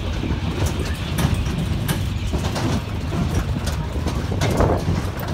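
Mini train heard from on board, running with a steady low rumble from its engine and wheels, and frequent small rattles and clicks from the carriage.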